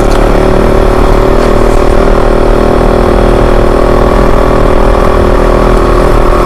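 Kove 450 Rally's single-cylinder engine running at a steady, even pitch while the dirt bike is ridden at constant throttle, loud and close to the microphone.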